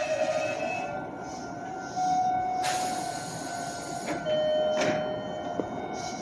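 Meitetsu electric commuter train coming to a stop at a platform, its steady motor and brake whine fading. Two short hisses of compressed air sound about two and a half and five seconds in, as the train halts and its doors open.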